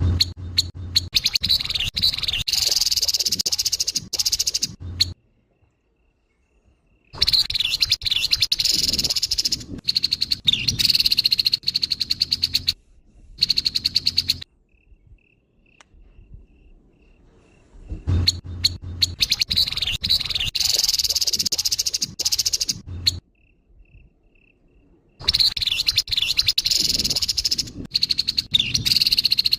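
Grey-headed babbler giving harsh, rapid chattering rattles in loud bursts of a few seconds each, with short pauses between. Faint soft repeated notes are heard in the gaps.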